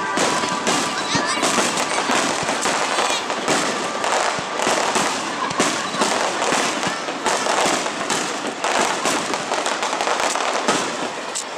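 Fireworks display: a dense, continuous volley of shell bursts and crackling, many bangs close together.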